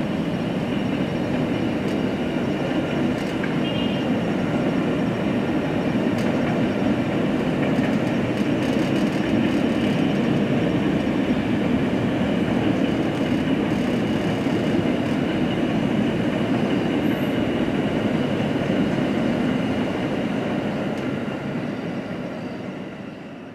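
Ex-JR 205 series electric commuter train running past on elevated track: a steady rumble of wheels on rail that fades out near the end.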